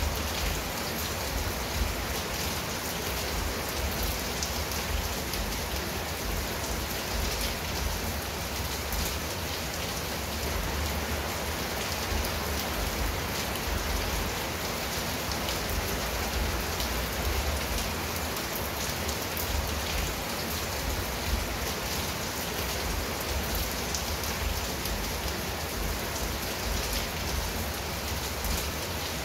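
Steady rain falling on a clay tile roof and garden foliage: an even hiss flecked with the small ticks of individual drops.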